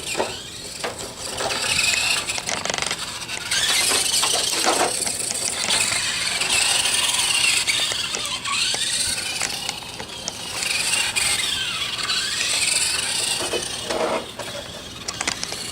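Electric RC car driving: its motor whines high, the pitch rising and falling several times as the car speeds up and slows down.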